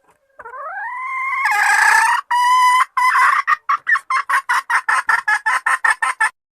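Junglefowl hen calling to attract a male. It gives a drawn-out note that rises in pitch, then a held note, then a run of short clucks that quicken and suddenly stop.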